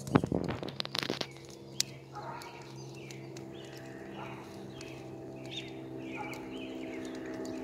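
A bird calling over and over in short calls, over a steady low hum, with a brief loud clatter of knocks in the first second.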